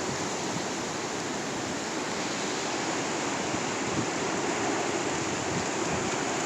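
Strong wind rushing steadily, with leaves being blown about and gusts buffeting the microphone with low rumbles.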